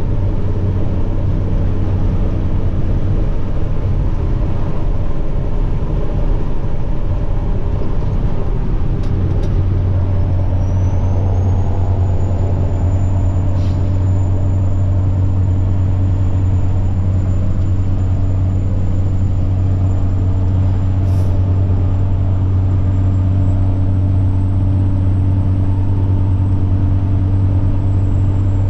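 Semi truck's diesel engine droning steadily, with a high turbocharger whine that rises about a third of the way in as the engine comes under more load, then holds steady. A few faint clicks.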